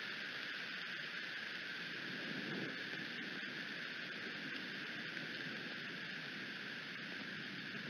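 Steady rain falling around the nest, a continuous hiss with faint scattered ticks of drops.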